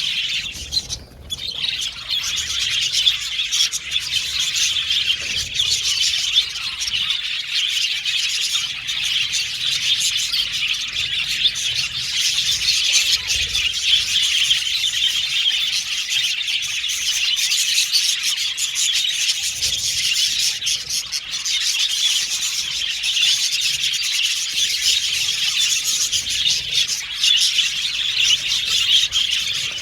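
A group of budgerigars chirping and chattering continuously, many overlapping chirps and warbles.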